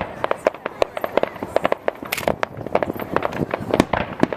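Aerial fireworks bursting in a rapid, irregular run of bangs and crackles, many shots a second, some louder than the rest.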